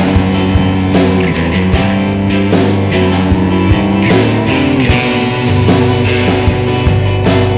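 Instrumental break of a rock song: guitar playing over bass and drums, with no singing.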